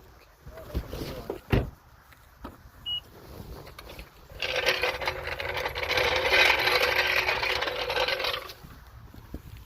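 A few scattered clinks and knocks of metal tools, then a power tool runs for about four seconds with a steady whine and stops.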